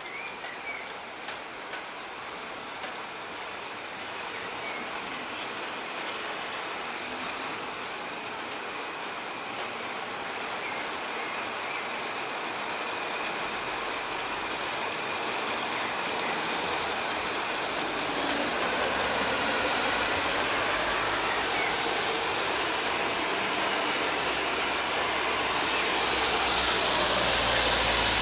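Heavy rain pouring down, an even hiss growing steadily louder as the downpour arrives. A few sharp drips tick in the first seconds, and a low rumble rises underneath in the second half.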